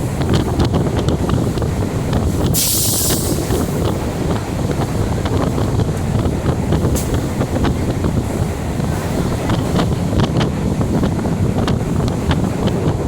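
Diesel multiple unit train running, heard from on board as a steady loud rumble with many small rattling clicks and wind buffeting the microphone. A short burst of hiss comes about two and a half seconds in.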